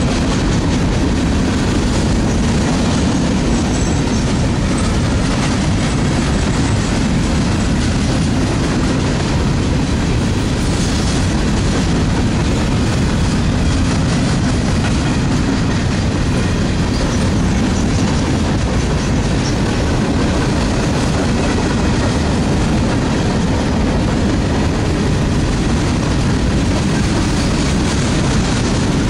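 Freight train boxcars rolling past: a steady loud rumble and rattle of steel wheels on the rails, with clickety-clack over the rail joints.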